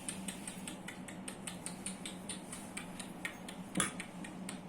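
Soft, irregular little clicks and taps, several a second, with one sharper click a little under four seconds in: an Indian ringneck parrot's beak and claws picking and fiddling at something close to the microphone.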